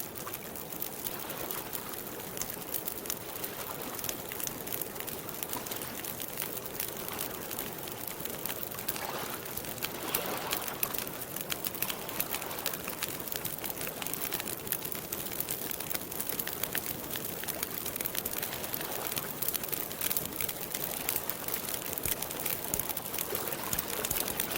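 Wood campfire crackling steadily with many small pops over a soft hiss, with birds calling faintly now and then.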